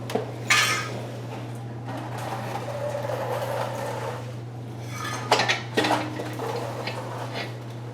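Metal hand tools and fasteners clinking, with a few sharp metallic clicks while bolts are worked loose, over a steady low hum.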